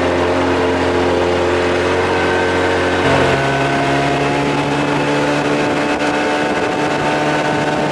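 Evinrude 25–30 hp two-stroke outboard running at speed, near full throttle, its pitch creeping slowly upward as the boat gathers pace.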